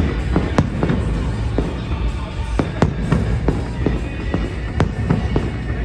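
Aerial fireworks bursting: an irregular run of sharp bangs and crackles, several a second, over a low rumble. Music plays underneath.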